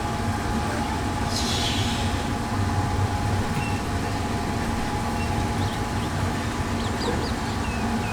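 Diesel locomotive of the Death Railway train running steadily alongside, a low rumble with a steady hum, and a brief hiss of air about a second and a half in.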